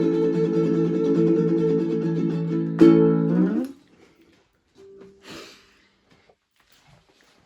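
Closing chords of a song strummed on an acoustic stringed instrument, ringing out. One last strum comes near three seconds in, and the strings are muted about a second later. Only a few faint handling noises follow.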